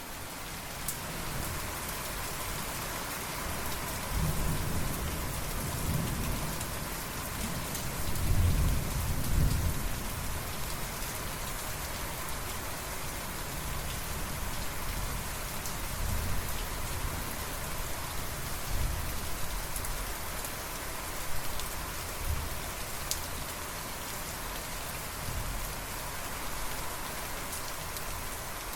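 Steady heavy rain falling, with low thunder rumbling beneath it, loudest from about four to ten seconds in, with smaller swells later on.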